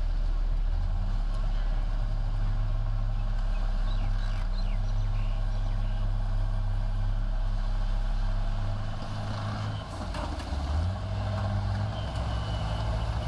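Heavy diesel earthmoving machine's engine running steadily under load. Its note dips and shifts about two-thirds of the way through, then steadies again.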